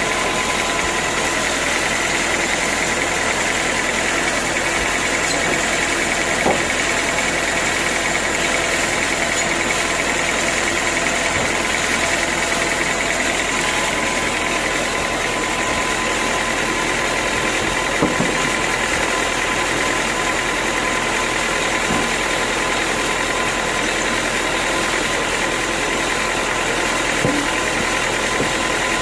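Sawmill machinery running steadily, with a constant whine and a few brief knocks.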